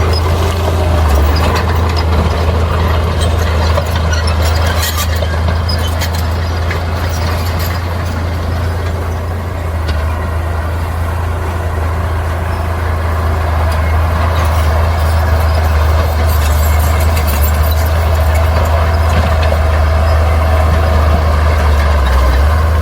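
Bulldozer diesel engine running steadily under load, with a strong low drone throughout. Sharp metallic clatter of tracks and rock comes in around five seconds in and again past the middle.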